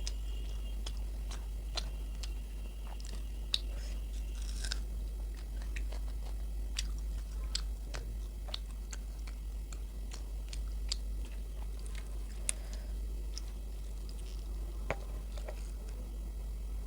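Close-up chewing and biting of luchi (puffed fried flatbread) with aloor dum (potato curry): many small, irregular mouth clicks over a steady low hum.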